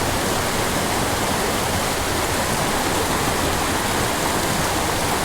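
Rushing water of a steep mountain creek tumbling over rocks and small falls: a steady, even rush that does not change.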